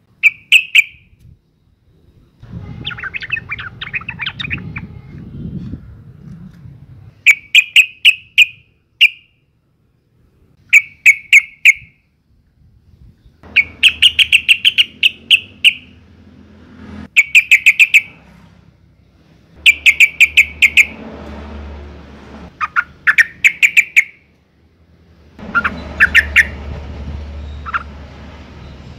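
Female yellow-vented bulbul (trucukan) calls: short bursts of rapid chattering notes, repeated every few seconds, the call of a female in breeding condition that is used as a lure to draw males into song. A softer low background noise runs under many of the bursts.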